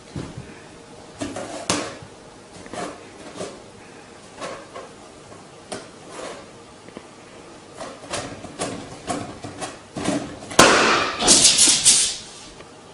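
A series of irregular knocks and clatters, with a louder burst of rattling near the end.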